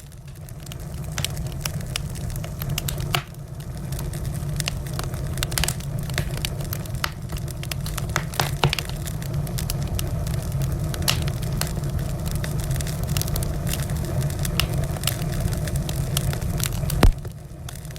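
Wood fire crackling, with a steady low rumble under many irregular sharp pops and snaps and one loud pop near the end.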